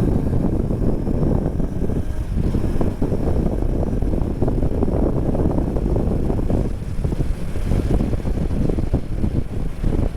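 Wind buffeting the microphone on a moving BMW R 1250 GS Adventure motorcycle, over the steady running of its boxer-twin engine.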